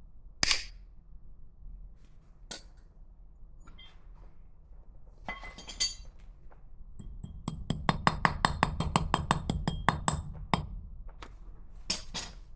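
Metal parts and hand tools clinking: a few single sharp clinks, then a run of quick, evenly spaced metallic clicks lasting about three seconds, and a last clink near the end.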